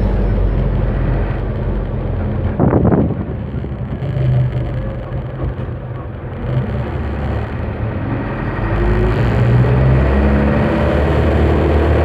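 Freshly overhauled truck engine running under way, with a short loud burst about three seconds in. From about eight seconds the engine revs up, its pitch rising, and then holds steady.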